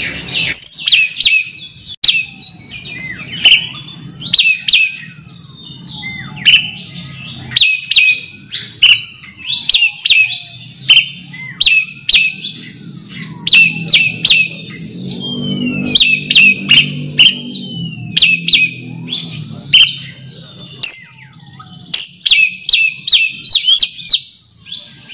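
Oriental magpie-robin (kacer) giving its rival-challenge call: clusters of short, sharp, high notes repeated rapidly throughout, the territorial call used to provoke an opponent. A lower, steadier layered sound rises beneath it in the middle.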